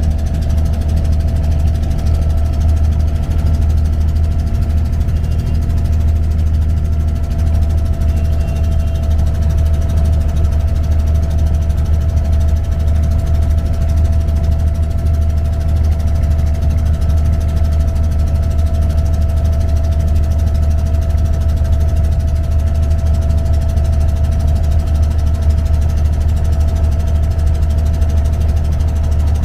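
Abra's inboard diesel engine running steadily under way: a deep, even rumble with a thin steady whine above it.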